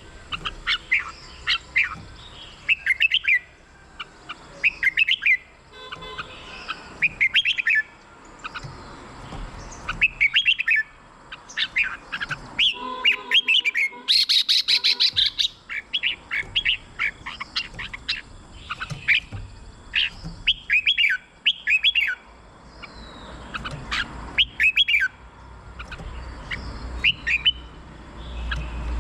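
Red-whiskered bulbul song: short, bright phrases of several quick, sweeping whistled notes, repeated every second or two.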